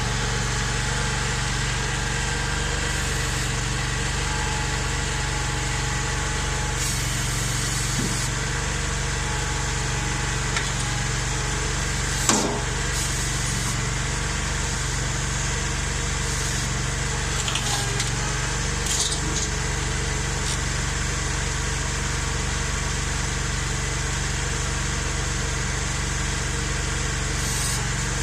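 Ventrac compact tractor's Kawasaki engine idling steadily, with one sharp knock about twelve seconds in and a few fainter knocks.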